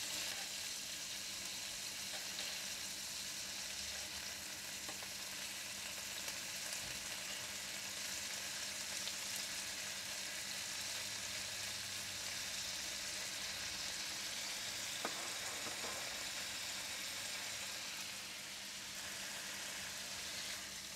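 Prawns frying in hot garlic oil in a wok, a steady sizzle.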